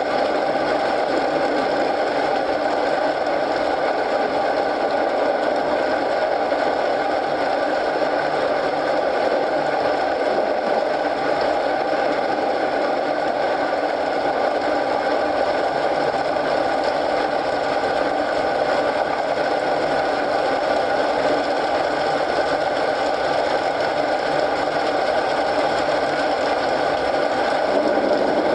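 Steady rain mixed with the dense crackling of a wood fire in a fireplace, unchanging throughout.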